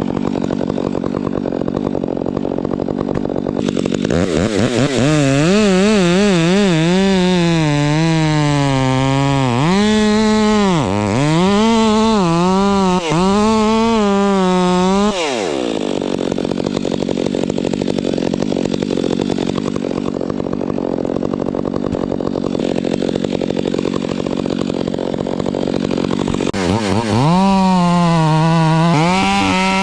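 Two-stroke chainsaw cutting wood: it runs low for the first few seconds, then at full throttle from about four seconds in, its pitch dipping and recovering again and again as the chain bites, drops back to a lower steady run around fifteen seconds, and revs up to cut again near the end.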